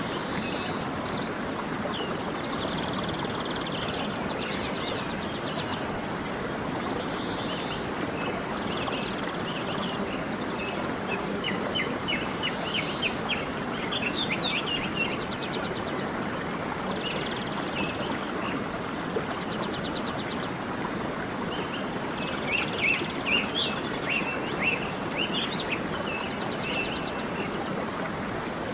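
A stream running steadily, with small birds chirping and trilling over it. The chirping comes in busier bursts near the middle and again toward the end.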